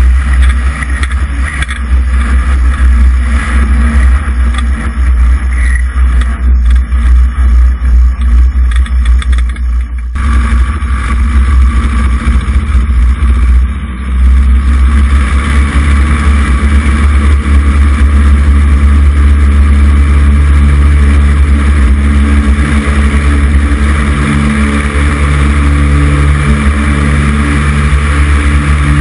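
Cessna 140's air-cooled flat-four engine and propeller running loudly and steadily, heard from on board. The level dips briefly about halfway through, then the engine holds a steady, even tone.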